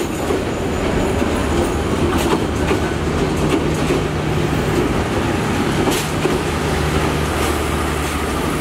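Bangladesh Railway passenger coaches rolling past: a steady rumble of wheels on the rails with a few sharp clacks at the rail joints. A low steady hum joins about three seconds in.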